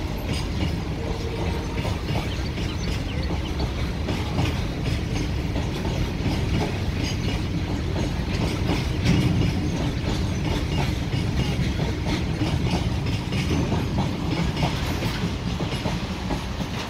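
BCNA covered freight wagons rolling past on the rails, a steady low rumble with many sharp clicks from the wheels and running gear.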